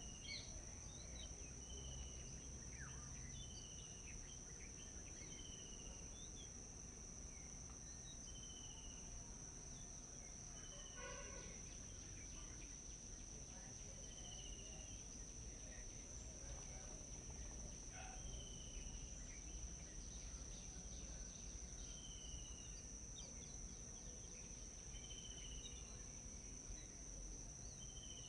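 Faint outdoor forest ambience: insects keep up a continuous high, steady drone. A bird repeats a short falling call every few seconds, over a low rumble.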